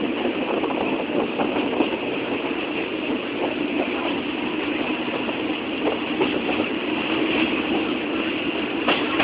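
Steady running noise of an old passenger train, an even rumble with scattered light clicks.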